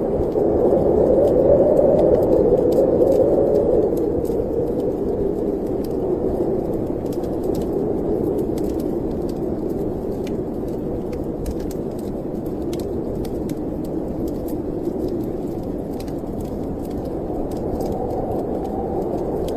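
Snowstorm wind blowing in a steady low rush that swells in a gust over the first few seconds and then eases, with a wood fire crackling in small sharp pops throughout.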